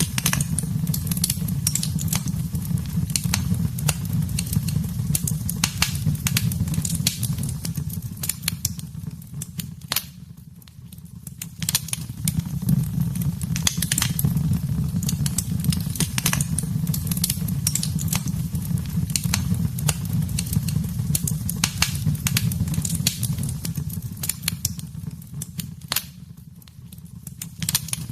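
Wood fire in a fireplace crackling and popping over a low, steady rumble of flames. The rumble fades briefly about ten seconds in and again near the end.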